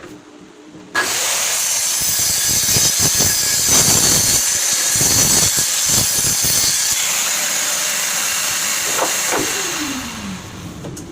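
An electric power tool, of the kind used to cut and shape the case's wood, starts suddenly about a second in and runs loudly. Near the end it winds down, its pitch falling as it stops.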